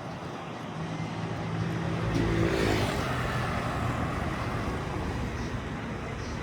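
A motor vehicle passing close by: its engine gets louder, is loudest about two and a half seconds in, then drops in pitch and fades as it moves away.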